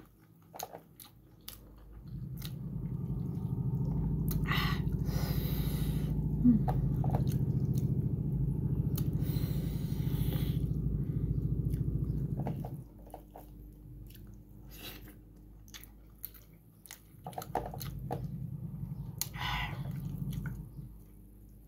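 A person chewing a mouthful of boiled pork and rice close to the microphone, with scattered lip smacks and clicks. Under it a loud low hum with a fine rapid pulse runs from about two seconds in to about thirteen seconds, and returns near the end.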